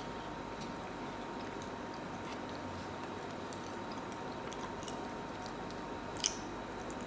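A person chewing food close to the microphone, with soft, wet mouth clicks scattered through and one sharper click about six seconds in.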